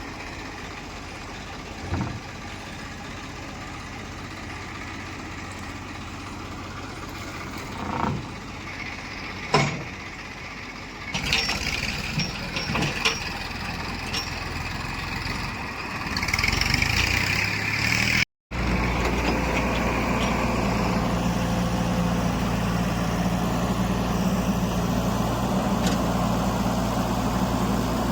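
Diesel engines of heavy machinery running. The first part has a low hum and a few sharp knocks. About eleven seconds in, louder clanking begins. After a break, a loud steady engine drone follows.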